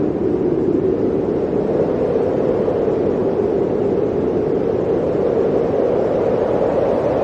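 Blizzard wind blowing steadily: a dense, unbroken rushing noise with a low hollow tone and no gusts or breaks.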